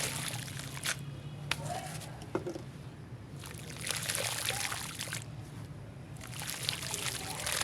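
Water being poured in three spells, trickling and splashing onto the shape-making material, with a few small clicks between the pours.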